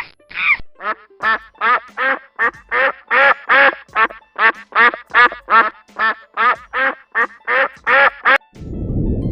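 An animal calling in a rapid series of short, repeated calls, two to three a second, each a brief arched note with a rich, buzzy overtone stack. The calls stop near the end, and a low rumbling noise takes over.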